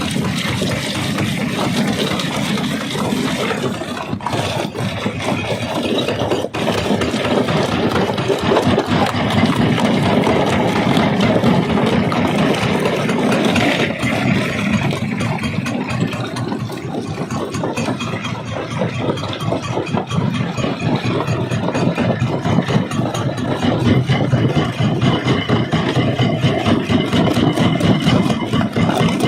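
Quarry rock crusher running: a steady mechanical drone overlaid with a dense, continuous clatter of stone.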